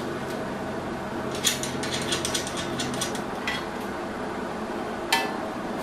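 Metal parts clinking as they are handled: a quick run of light clinks about a second and a half in, then single clinks later. Under them is a steady low hum that stops about halfway through.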